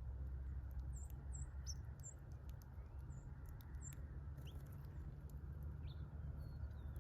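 Small birds chirping: a run of short, high chirps from about one to four seconds in, and a few scattered calls later, over a steady low rumble.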